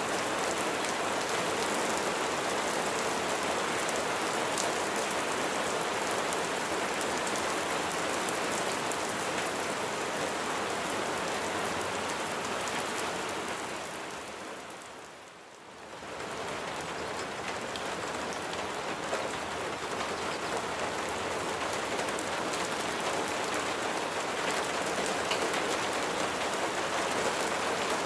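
Steady rain, a dense even hiss of falling drops. About halfway through it fades down briefly and swells back up.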